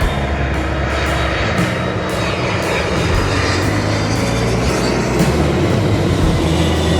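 Jet airliner passing low overhead on its landing approach, a steady rushing engine noise, with background music playing under it.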